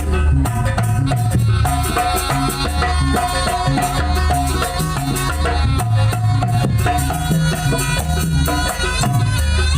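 East Javanese folk-ensemble music played loud: a pulsing low drum beat with rattling percussion, and a wavering high melody line held over it.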